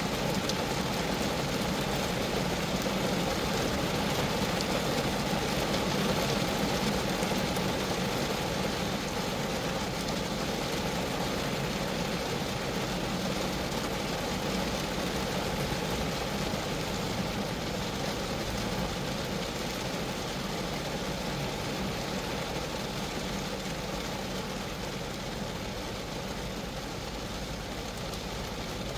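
Steady rain falling on a Geo Metro, the drops striking the car's roof and body in a dense, even hiss.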